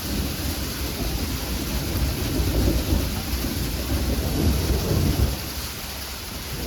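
Thunder rumbling, building and peaking about halfway through, then dying away after about five seconds. Underneath is the steady hiss of sleet and freezing rain pattering down.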